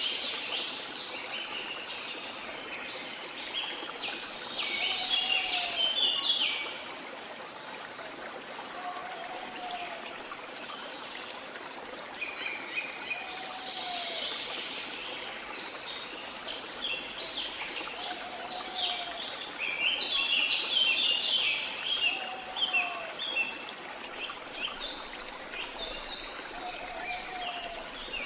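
Steady rush of a waterfall under rainforest birdsong: clusters of quick chirping and twittering, loudest about five seconds in and again around twenty seconds, with a short low call, rising then falling, repeating about every four seconds.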